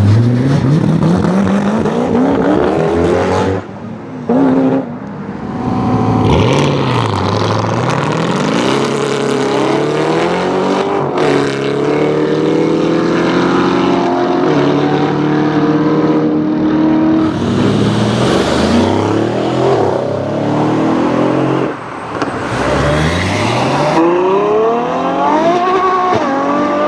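Supercar engines revving and accelerating hard in a run of short clips. The engine pitch climbs and falls again and again, with abrupt switches from one car to the next.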